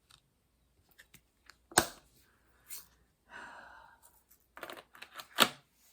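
Small plastic diamond-painting drills and tools being handled at a craft table after a spill: scattered sharp clicks and taps, a short rustling slide in the middle, and a quick run of clicks near the end.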